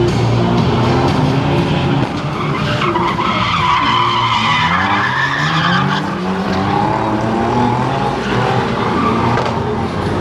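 Car engine revving up on track, its pitch climbing over several seconds, with tyres squealing as the car skids, as in a drift or burnout.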